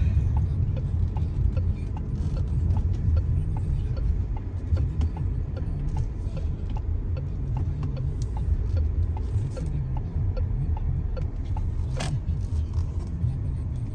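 Steady low rumble of a car's engine and road noise heard from inside the cabin while driving. One sharp click about twelve seconds in.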